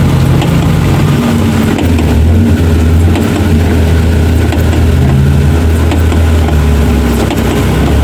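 An off-road 4x4's engine running hard under load, a loud low drone whose pitch drops about two seconds in and shifts again near the middle.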